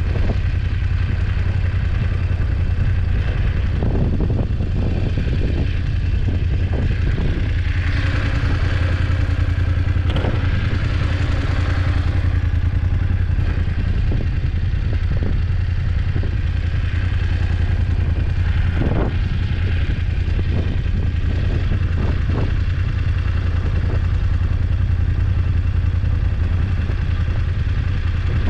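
BMW F850GS motorcycle's parallel-twin engine running steadily while riding, with scattered knocks and clatter throughout.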